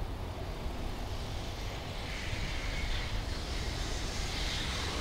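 Freight train approaching: an EH200 electric locomotive hauling tank cars, its noise building as a growing hiss from about two seconds in, over a steady low rumble.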